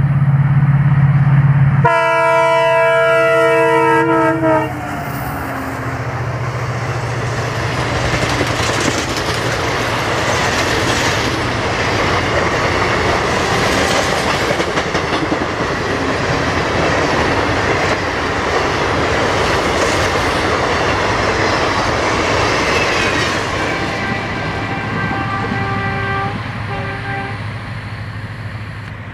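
A diesel locomotive's horn sounds one long blast of about two and a half seconds. Then a train of ICF passenger coaches passes at speed, with wheels clattering over the rail joints, and fades as it recedes. The horn sounds again, fainter, in short blasts near the end.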